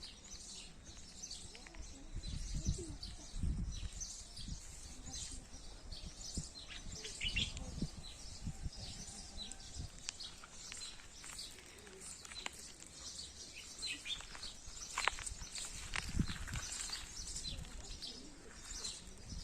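Small birds chirping and twittering continuously in open countryside, with a few low rumbling bumps now and then.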